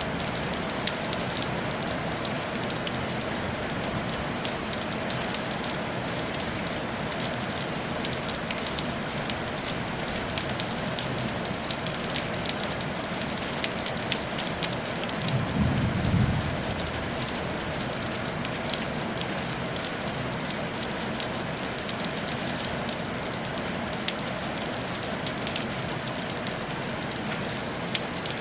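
Steady rain falling on a tile roof, a dense patter of individual drops over an even hiss. About halfway through, a low rumble swells for a couple of seconds and fades.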